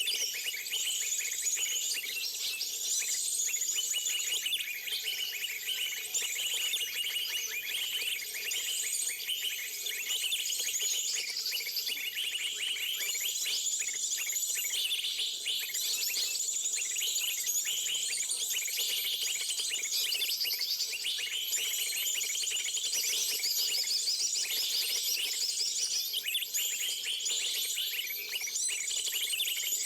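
Many small birds chirping and twittering at once in a dense, overlapping chorus. Over it runs a thin, very high steady whine that starts to pulse in a regular beat about a third of the way in.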